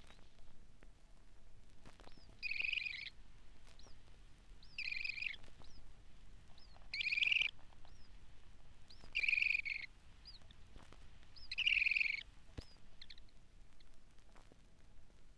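Western sandpiper calling: five half-second calls about two and a half seconds apart, with short thin high notes in between. Vinyl record crackle and clicks run underneath.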